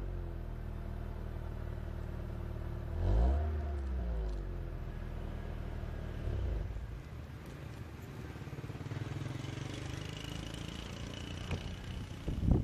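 Exhaust of a Timor S515i's 1.5-litre DOHC four-cylinder engine idling, revved once about three seconds in and blipped briefly near six seconds. After that the engine note drops away to a fainter, mixed noise.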